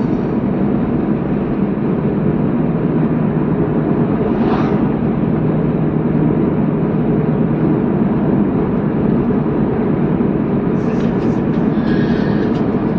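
Steady road and engine noise heard inside a moving car's cabin, with a brief swish about four and a half seconds in.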